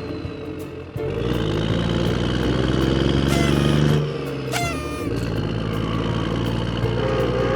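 A small motor running steadily, its pitch shifting about a second in and again around four to five seconds. Two quick falling squeaky glides come in the middle.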